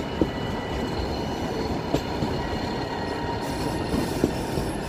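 Nilgiri Mountain Railway toy train running slowly downhill around a curve: a steady rumble of wheels on the rails with a faint thin wheel squeal, and a sharp knock about every two seconds.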